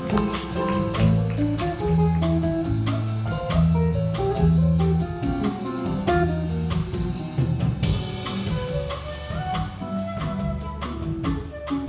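Small live band playing an instrumental passage, with guitar and bass over a drum kit keeping steady time on the cymbals. About eight seconds in the cymbal pattern drops out and the accompaniment changes.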